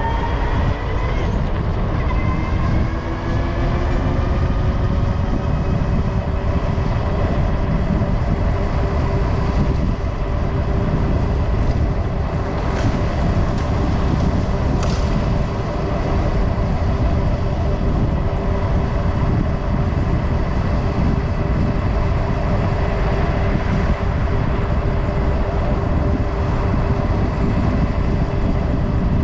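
Super73 electric bike riding at speed: the motor's whine rises in pitch in the first couple of seconds as it speeds up, then holds steady, over a heavy rush of wind on the microphone.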